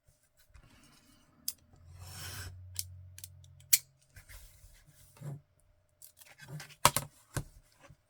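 Thick card being cut: sharp clicks of a blade closing and short rasps of cutting through the card, several times.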